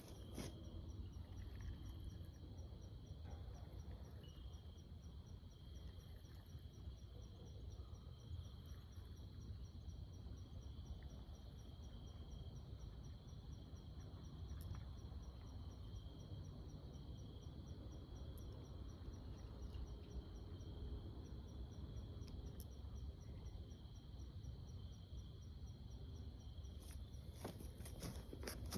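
Insects trilling steadily: a high, rapidly pulsing chirr with a steady high hum beneath it. Low wind rumble runs under it.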